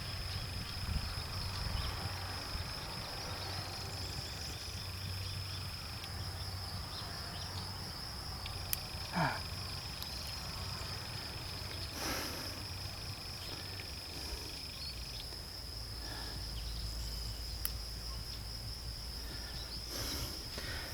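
Insects trilling steadily at a high pitch, with a second, lower trill starting and stopping, over a low outdoor rumble. A few faint clicks are scattered through.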